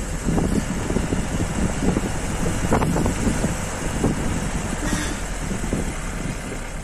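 A vehicle driving along a rough forest road: steady engine and road rumble with irregular low bumps, and wind buffeting the microphone.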